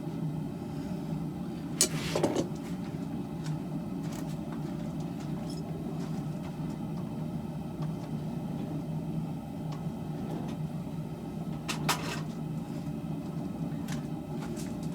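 Propane forge burner running with a steady roar, with two sharp metal clanks, about two seconds in and near twelve seconds.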